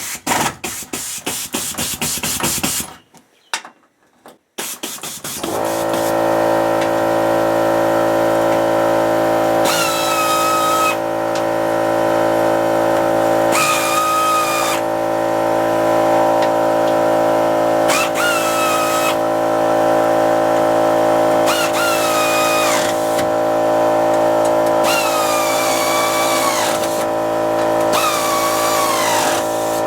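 Blue Point 1/4-inch air ratchet running in a rapid clatter for the first few seconds, then a short pause. From about five seconds in, the small 1 hp electric air compressor starts and runs with a steady hum, while the ratchet is triggered in about six short bursts of air hiss and whine that sags in pitch.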